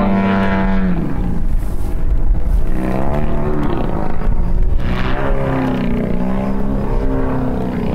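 Large-scale RC aerobatic airplane's 100cc gasoline engine in flight. It runs steady at high throttle for about a second, then drops in pitch and keeps rising and falling as the throttle is worked.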